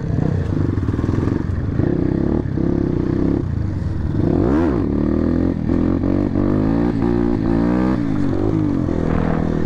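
Several motorcycle engines running together as a group rides uphill. Their pitches rise and fall and cross one another, with one engine dropping and picking up again sharply about halfway through.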